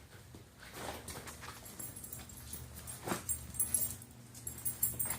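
A dog giving short sounds, about a second in and again about three seconds in, with rapid high-pitched chirping over the last second and a half.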